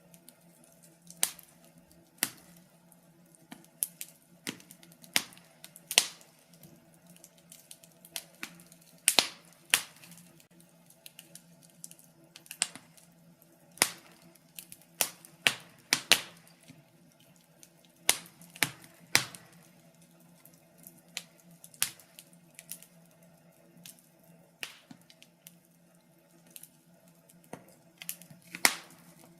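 Wood fire in a fireplace crackling: sharp, irregular pops and snaps, roughly one to three a second, over a faint steady low hum.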